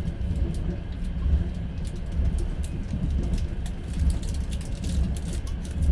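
Inside a moving passenger railway carriage: the train runs with a steady low rumble, with scattered light clicks and rattles over it.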